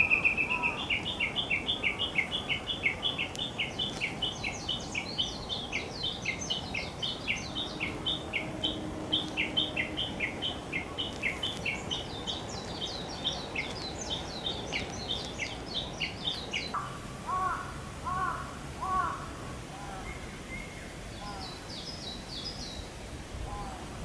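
Wild songbird song: a fast run of short repeated high notes, about four a second, that keeps going for some sixteen seconds, with a second bird's higher notes over it at times. After it stops, a few lower, arching calls come from another bird, then a short burst of high notes near the end.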